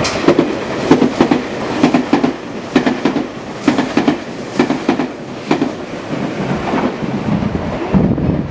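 Tobu 200 series limited-express electric train passing through the station at speed: its wheels clack over the rail joints in a steady rhythm of paired knocks, about one pair a second, over the rumble of the cars, easing off near the end as the last car goes by.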